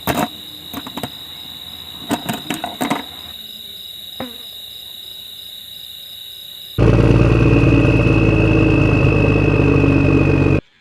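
A few clicks and knocks over a steady high whine. About seven seconds in, a small motor starts suddenly and runs loudly and steadily with a high whine, then cuts off abruptly near the end.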